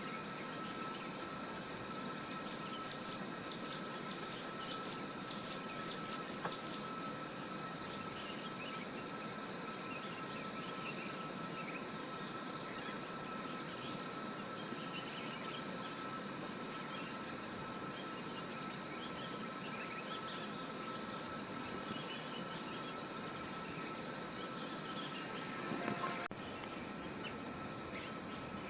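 Forest insects droning steadily, with several continuous high tones layered together. From about two seconds in, a rapidly pulsing high trill stands out for about four seconds. Faint bird chirps are scattered through.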